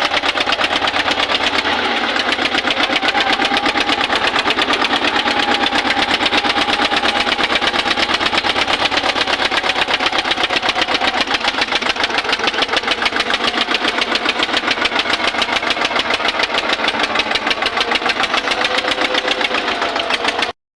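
Eicher tractor's diesel engine running steadily with a rapid, even chugging beat. The sound cuts off abruptly just before the end.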